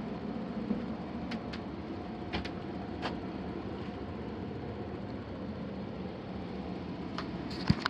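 Steady hum of a running HVAC indoor air handler, with a few light clicks and knocks scattered through it.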